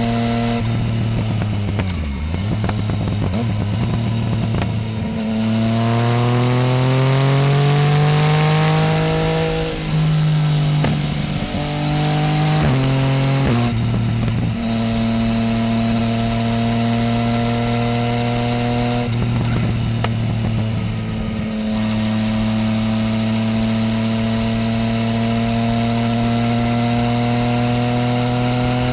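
Yamaha Tracer 900 GT's inline-three engine running through a full Roads Italia aftermarket exhaust: it pulls hard with pitch rising for several seconds, then shifts up in quick steps and settles into steady cruising. A brief roll-off of the throttle comes about two-thirds of the way through before the pitch climbs slowly again.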